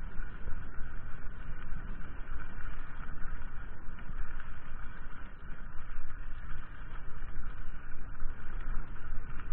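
Mountain bike riding along a trail: a steady rumbling noise of wind on the microphone and tyres rolling over the ground.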